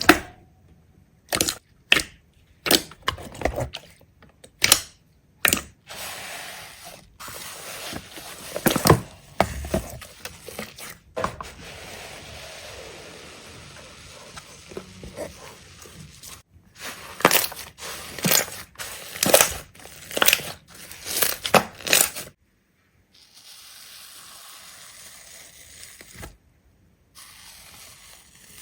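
Repeated sharp crunches and cracks, irregularly spaced and sometimes in quick runs, with stretches of faint hiss between them.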